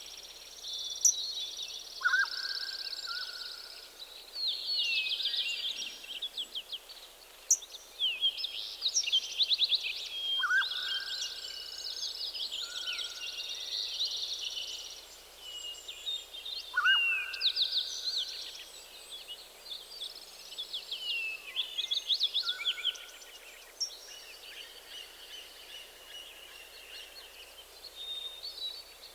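A chorus of several songbirds singing at once: fast high trills and warbling phrases overlap almost without a break. A lower whistled phrase recurs about every six to seven seconds.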